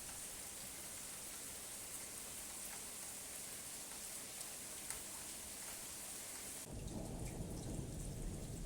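Steady rain hissing, with scattered drop ticks. Near the end a low rumble of thunder comes in suddenly and the sound grows louder.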